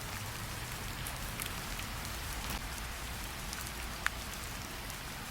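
Steady rain hiss with a campfire crackling, scattered small pops and one sharper pop about four seconds in.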